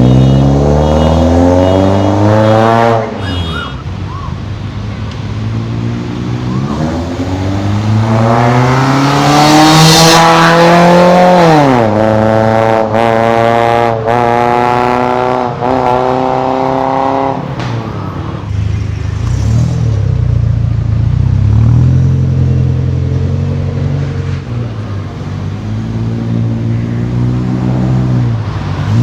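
Toyota Innova engine breathing through a new full stainless-steel exhaust, revving up and falling back: a long climb in pitch, then a quick run of short rises and dips, then steadier lower running before it picks up again near the end.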